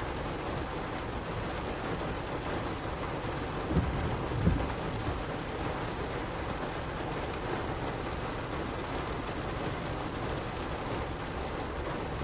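Heavy rain drumming steadily on a car's roof and windows, heard from inside the car. Two short low thumps stand out about four seconds in.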